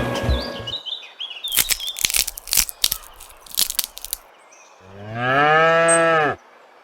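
A cow mooing once, a long call of about a second and a half, with crunching clicks in the seconds before it.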